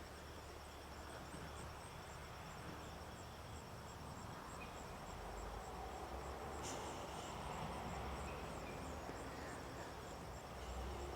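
Insects chirping in a steady, fast, high-pitched pulse, with a low rumble underneath and one brief click about seven seconds in.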